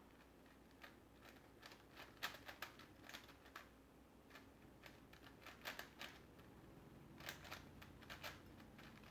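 Faint plastic clicking of a Rubik's-type puzzle being turned by hand, with the taps coming in quick irregular runs and short pauses between them.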